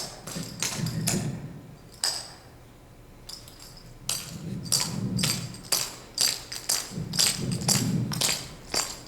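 Clogging shoe taps striking a hard floor in quick, rhythmic clusters of metallic clicks as the Mountain Goat step and backing basics are danced, with a short lull about two seconds in.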